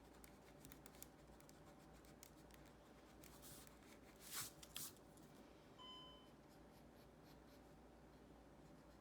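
Faint scratching of drawing on paper, with two louder, short strokes about halfway through.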